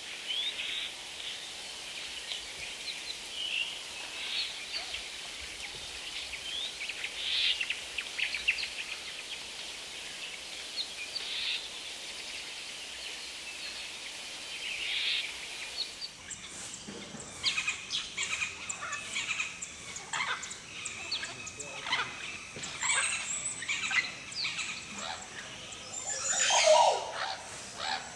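Wild birds calling: quick high chirps and short trills over a steady background hiss. Just over halfway the recording changes abruptly to busier, more varied calls, some lower in pitch, with the loudest calls near the end.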